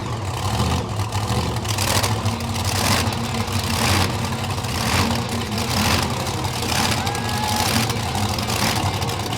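Monster truck engines rumbling at the start line, surging about once a second as the drivers blip the throttle before the race.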